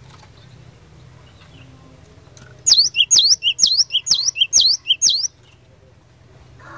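Cinereous tit (glatik batu) singing a quick phrase of six repeated high, sharp two-part notes, starting nearly three seconds in and lasting about two and a half seconds.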